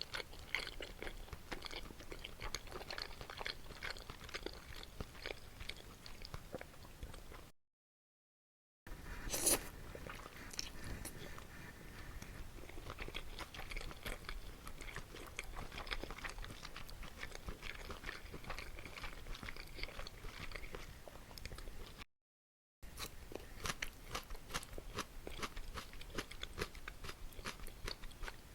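Close-miked eating: chewing and biting food with small wet clicks and crunches. It is broken twice by a brief cut to dead silence, and one sharp, louder bite comes just after the first cut.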